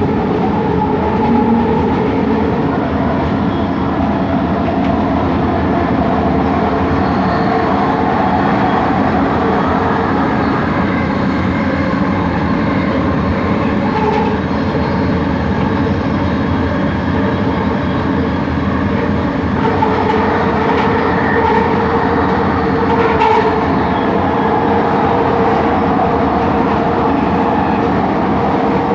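Bombardier Innovia ART 200 linear-motor train running, heard from inside the car: a steady rolling rumble with humming motor tones held at a constant pitch, and a single sharp tick about 23 seconds in.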